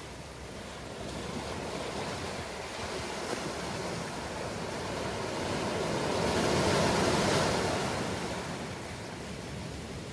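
Ocean surf: a steady wash of waves that swells to a peak about seven seconds in and eases off again.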